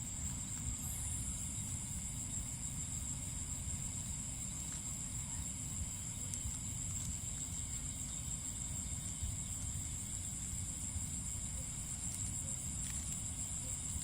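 Night insects trilling steadily at a high pitch, with a second, higher trill joining about a second in, over a low rumble.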